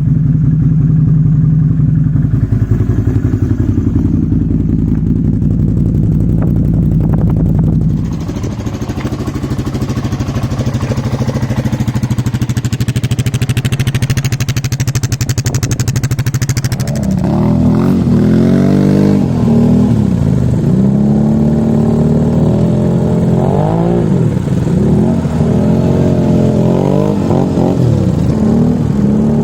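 Small off-road vehicle engine running at a steady note, its sound changing about eight seconds in. Over the second half it revs up and down repeatedly, rising and falling every second or two.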